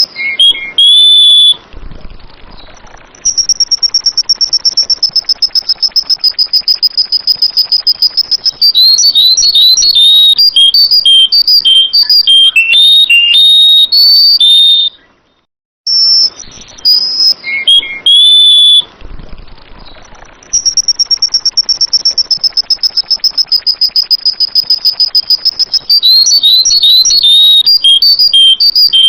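Sooty-headed bulbul (kutilang) song, a loud looped recording. A long, fast, high trill gives way to quick runs of short, clear whistled notes that jump in pitch. The whole sequence breaks off briefly about halfway through and then plays again the same way.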